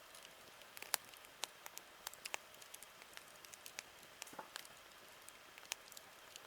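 Campfire crackling: irregular sharp pops and snaps over a soft steady hiss, the loudest snap about a second in.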